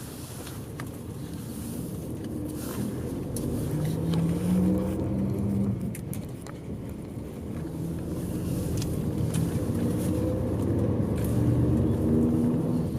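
Bus engine heard from inside the passenger cabin, pulling up through the gears: its pitch rises, drops at a gear change about six seconds in, then rises again.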